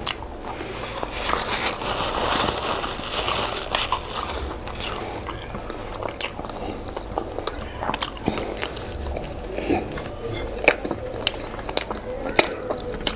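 Close-miked mukbang eating sounds: boiled yam and owo stew being chewed, with frequent sharp, wet mouth clicks and smacks.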